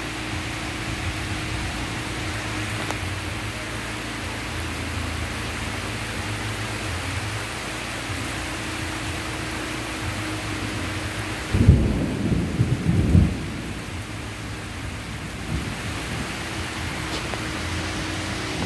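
Heavy rain pouring steadily, with a clap of thunder rumbling for under two seconds about twelve seconds in.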